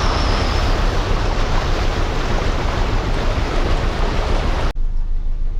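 Floodwater rushing through a flooded street, a loud steady rush. It cuts off suddenly near the end to a quieter rushing.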